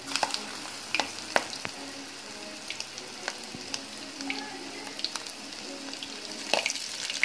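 Cornflour-battered prawns deep-frying in hot oil in a wok: a steady sizzle with frequent sharp crackles and pops. The sizzle gets louder at the start as a prawn drops into the oil.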